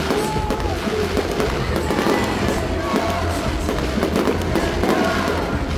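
Fireworks bursting and crackling in quick succession over loud stadium music with a pulsing bass.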